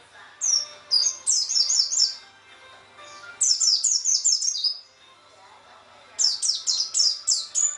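A pleci (white-eye) singing: three quick bursts of high, rapid chirps, each note sweeping downward, with short pauses between them.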